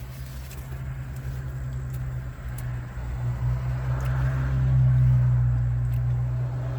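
Car idling, a steady low hum heard from inside the cabin that swells slightly about five seconds in.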